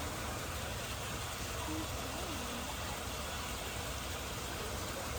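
Steady background noise, an even hiss, with a brief faint wavering tone about two seconds in.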